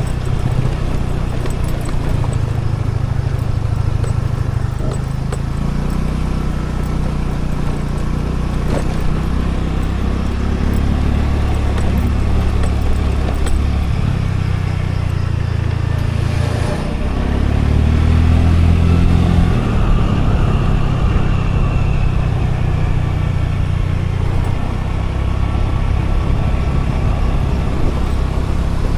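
Scooter engine running under way, with road and wind noise. Its pitch shifts as the throttle changes, dropping briefly about sixteen seconds in and then picking up again.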